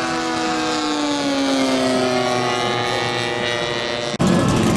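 Large radio-controlled model airplane's engine flying past, its pitch sliding slowly down. About four seconds in, it cuts off abruptly to a louder, closer engine running steadily.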